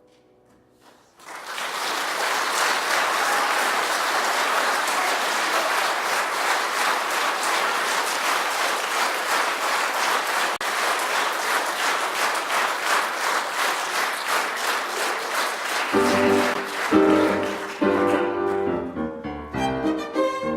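Audience applauding for about fifteen seconds after a brief hush. Near the end the applause gives way to instrumental music with violin.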